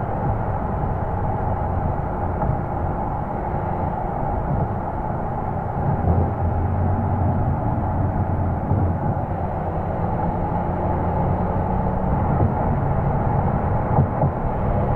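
Porsche Boxster S 3.2-litre flat-six exhaust heard close-up from outside the car while driving, running fairly steadily with small swells in level, under wind and road noise.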